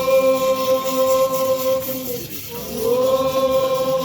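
Voices chanting in a ritual song, holding long steady notes with a slide in pitch between them: one note for about two seconds, a dip, then a rise into the next held note.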